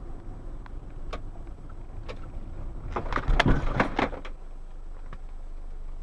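Car driving, with a steady low engine and road rumble, and scattered sharp knocks; about three seconds in comes a denser burst of knocking and clattering, the loudest part.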